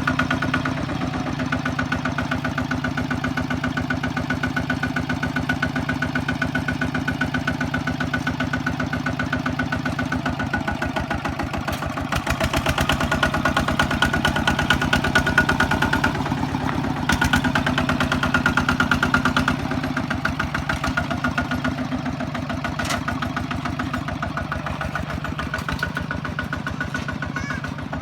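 Kubota ZT155 single-cylinder diesel engine running steadily with a rapid, even firing beat, getting louder in two stretches around the middle.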